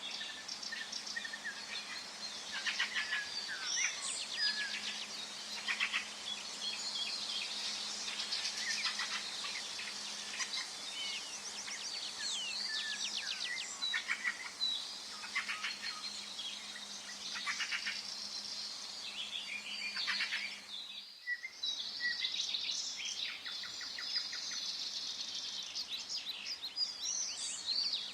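Forest birdsong: several birds chirping, whistling and giving fast trills, overlapping throughout. Everything dips briefly about three quarters of the way through.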